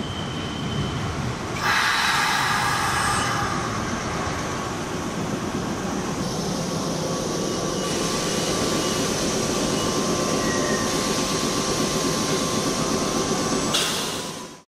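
Sanyo Electric Railway 3000 series train pulling into the station and running along the platform, with steady wheel-on-rail noise. It gets louder about two seconds in, and from about six seconds a steady squeal joins as it slows. The sound fades out near the end.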